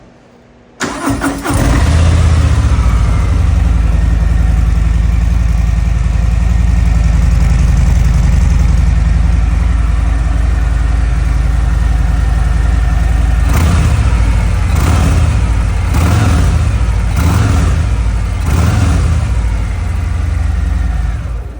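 Harley-Davidson V-twin on its stock mufflers, cold-started: it cranks briefly about a second in, catches and idles with a deep, steady note. Between about 13 and 20 s it is blipped several times, then it is shut off near the end.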